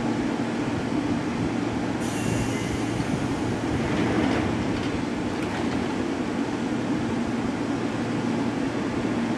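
Seibu 2000-series electric train standing at the platform with the steady hum of its onboard equipment. There is a brief hiss about two seconds in, then a few soft knocks around four to five and a half seconds in as its doors close.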